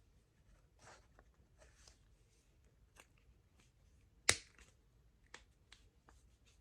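Faint bench-work handling of a small-engine carburetor and its brackets: scattered light clicks and taps of small metal parts and hand tools, with one sharper click about four seconds in.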